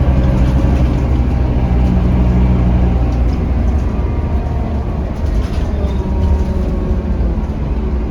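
Scania K310UB city bus's five-cylinder diesel engine, heard from inside the bus, pulling with a steady low note for about three seconds, then easing off so that a rougher road and cabin rumble takes over.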